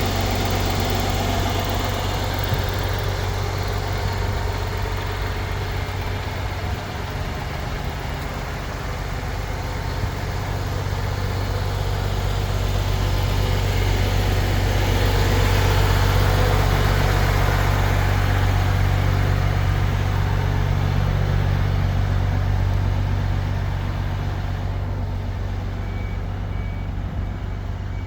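MAN TGS 35.420 truck's inline-six diesel engine running with a steady low rumble, growing somewhat louder midway and easing off toward the end.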